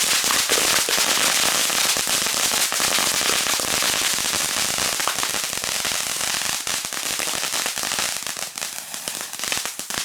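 Consumer firework fountains burning with dense crackling over a steady high hiss, dying down over the last couple of seconds.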